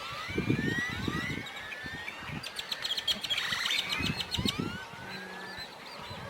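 Many birds chirping together, with short rising calls overlapping, and a quick rattling run of clicks near the middle. Low rumbling bursts come and go underneath.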